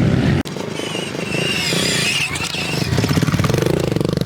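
Pit bike engines running and revving, with an abrupt change in the sound about half a second in where one clip cuts to the next.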